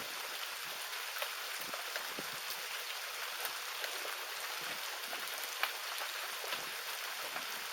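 Rain falling steadily as an even hiss, with scattered individual drops clicking close by.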